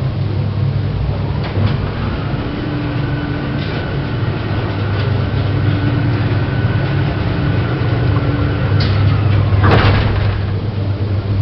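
Associated Lift Services service lift in operation: a steady low hum with a faint whine while the car travels, then a click and a short burst of door noise near the end as it arrives.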